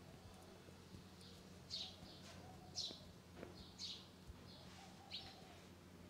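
Bird chirping: four short, high, falling chirps, roughly a second apart, over a steady low electrical hum.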